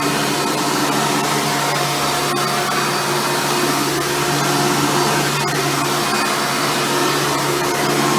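Hoover Futura Elite upright vacuum cleaner running steadily while vacuuming, a constant motor hum with a few faint ticks.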